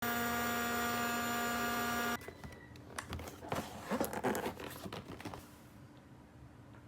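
A loud steady held tone for about two seconds that cuts off suddenly, then light clicks, taps and crinkling as plastic toy packaging and pieces are handled.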